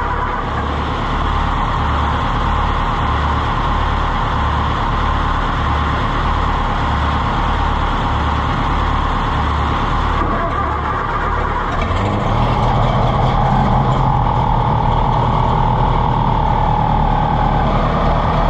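Oliver Super 55 tractor engine being cranked for a cold start, a slow regular pulse, then catching about twelve seconds in and running steadily, louder, with an even engine note.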